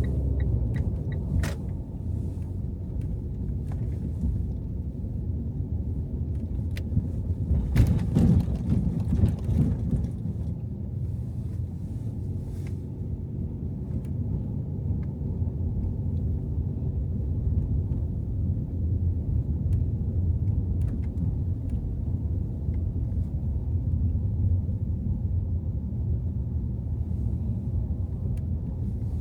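Car driving through snowy city streets: a steady low rumble of engine and road noise, with a brief louder swell about eight seconds in.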